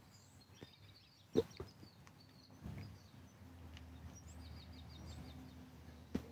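Faint outdoor ambience with songbirds chirping, including a quick run of about seven short notes near the middle. Two sharp clicks stand out, one early and one near the end, over a low hum that sets in halfway through.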